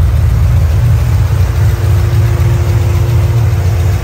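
Turbocharged SN95 Mustang engine idling steadily at operating temperature, with its Chevy Volt electric radiator fans running, switched on at the 196° set point.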